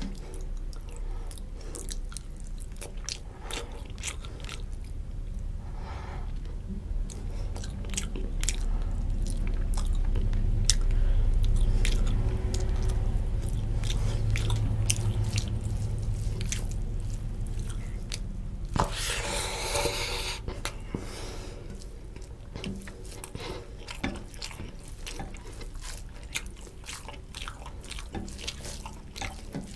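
Close-miked chewing of a mouthful of rice and fish curry, full of wet clicks and smacks, with a brief loud rushing noise about two-thirds through. Near the end come soft squishing sounds of fingers mixing rice and curry on the plate.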